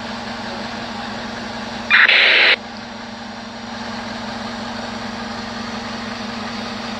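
Heavy diesel engine running steadily with a low hum, as the lifting machine lowers a load. About two seconds in, a brief loud hiss lasting under a second.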